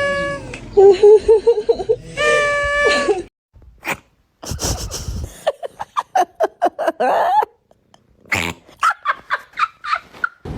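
A cat making odd vocal sounds in several short clips: two held, steady cries with a wavering cry between them, then after a break a mix of clicks and short cries, and near the end a run of short, quick calls.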